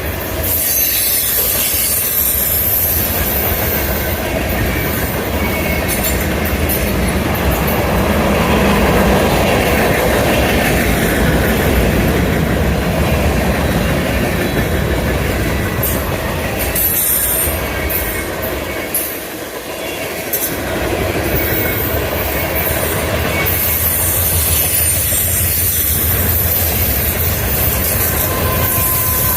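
Freight train cars rolling steadily past, wheels clattering over rail joints, with high-pitched wheel squeal; the sound eases briefly about two-thirds of the way through, then picks up again.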